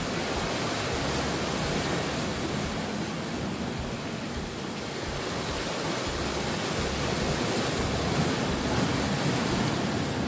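Steady rushing of sea surf washing on the shore, swelling a little in loudness over several seconds.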